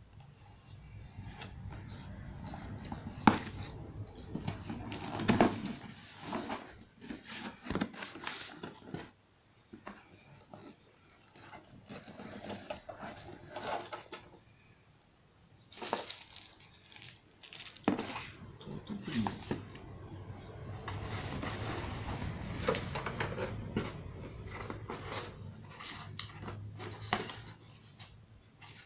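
Intermittent clicks, knocks and rustling of objects being handled, the sharpest knock about three seconds in.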